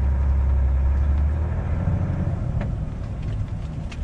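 Heavy truck's diesel engine pulling under load, a deep steady drone that eases off a little under halfway through, as the truck and trailer bog down in deep snow ruts.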